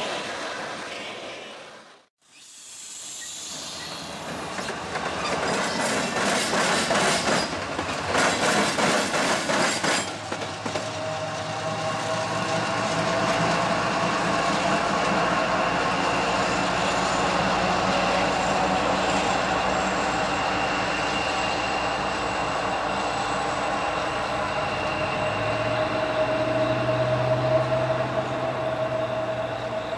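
Freight train on the move. Hopper cars roll past, and about two seconds in the sound briefly drops out. Then a CSX diesel locomotive approaches, its wheels clattering over rail joints for a few seconds before the engine's steady running and whine take over.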